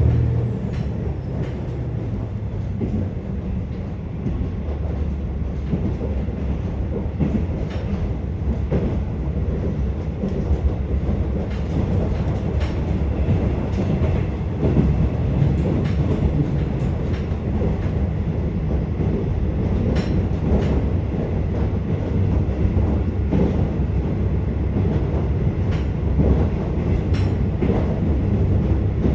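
Inside a KiHa 47 diesel railcar running along the line: a steady rumble of wheels on rails, with scattered clicks from the track.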